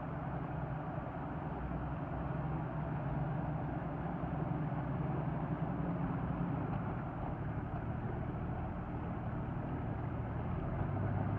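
A four-wheel-drive vehicle's engine running steadily with a low hum over a constant noisy rumble; its pitch shifts slightly near the end.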